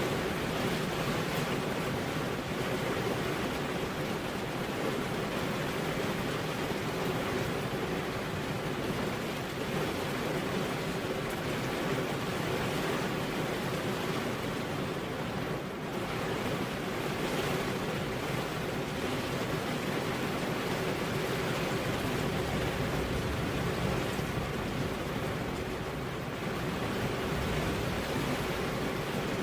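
Steady, continuous rain falling, an even hiss with no distinct drops.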